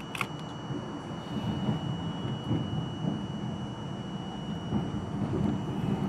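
R42 subway train running along the track, heard from inside the car: a steady rumble of wheels and motors with a thin, steady high-pitched whine. A couple of sharp clicks come right at the start.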